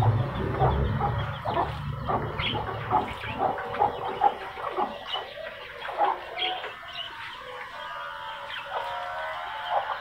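Birds calling: a steady run of short clucking and chirping calls, like domestic fowl.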